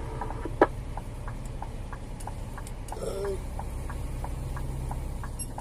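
Scania G410 truck engine running steadily at low revs, heard from inside the cab, with a regular light ticking about three times a second. There is a single sharp click about half a second in.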